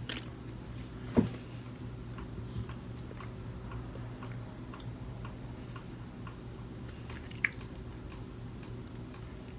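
Close-miked chewing of sushi, with scattered small wet mouth clicks and a sharper click about a second in, over a steady low hum.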